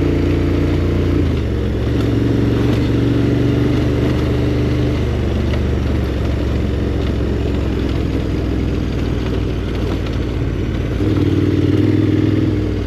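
KTM 1290 Super Adventure R's V-twin engine running as the bike rides along, its note dropping about a second in and rising again near the end.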